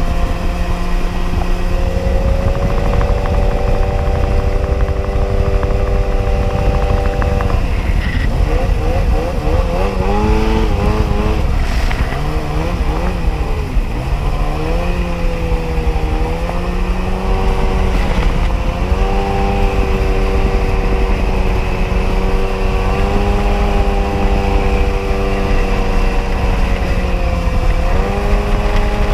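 1994 Sea-Doo XP jet ski's two-stroke engine running under way at cruising throttle. Its pitch wavers, dips and climbs again between about 8 and 16 seconds in as the throttle is eased and reopened, then holds steady, with a short dip near the end.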